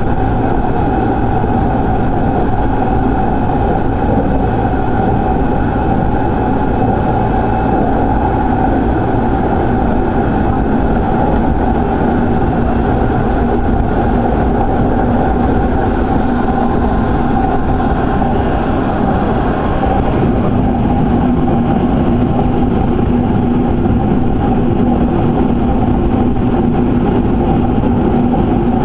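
Electric commuter train running between stations, heard from inside the car: a steady rumble of wheels on rail with several constant tones.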